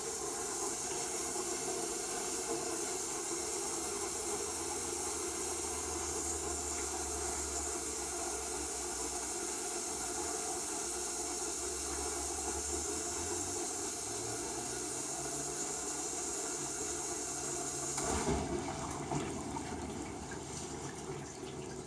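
Devanti benchtop dishwasher running its wash cycle: a steady hiss of water spraying with the circulation pump humming underneath. The pump's hum shifts pitch about two-thirds of the way through. Near the end the spraying stops abruptly, giving way to lighter sounds of water trickling and filling.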